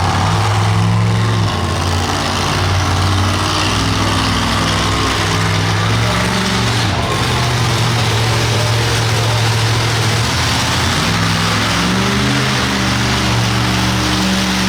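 Monster truck engine running loudly, its pitch stepping up and down a few times as the throttle changes, over a background of arena noise.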